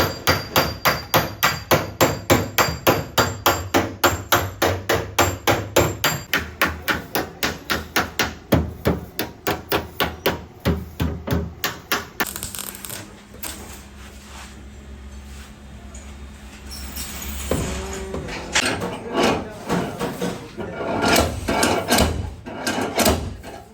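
Hammer blows on car body sheet metal during panel denting: a fast, even run of about four strikes a second for roughly the first half. The second half has a steadier noise and a few irregular knocks.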